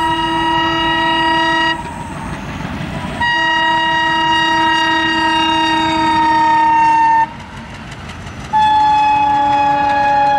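Indian Railways locomotive horn sounding three long blasts, the middle one longest and the last one lower in pitch, with the train running between them.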